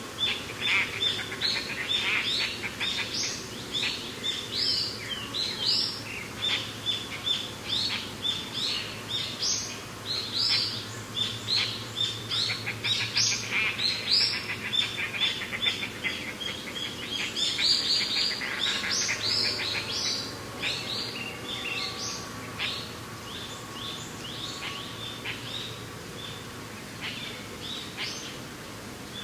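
A chorus of songbirds chirping and trilling: many short, overlapping high calls, densest through the first two-thirds and thinning out near the end, over a steady low background rush.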